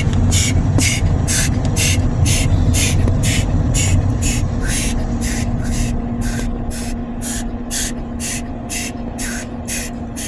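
Automatic car wash machinery heard from inside a car: short hisses of spray about twice a second over a low rumble that slowly fades, with a steady hum joining about halfway through.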